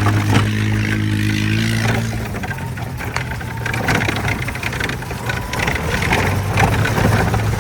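A vehicle's motor running with a steady hum, with scattered knocks and rattles over it.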